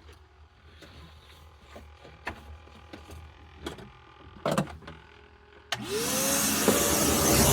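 A few light clicks and knocks, then a vacuum cleaner switched on near the end: its motor starts suddenly with a loud rush of air and a whine that rises quickly and then holds steady.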